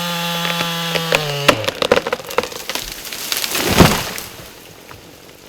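Chainsaw running at full throttle, its engine note dropping as the throttle is let off about a second and a half in. Then come wood cracking and splintering and a loud crash near the middle, as a cut section of tree gives way and falls.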